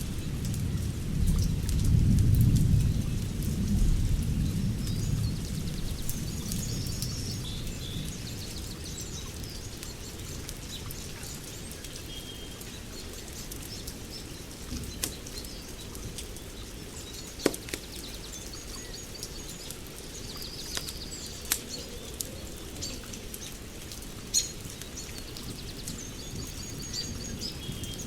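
Wood fire crackling with a steady hiss and a few sharp pops, while birds chirp. A low rumble fades away over the first few seconds.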